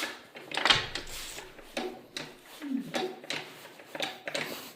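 Footsteps, irregular, about one to two a second, each a short scuff or crunch.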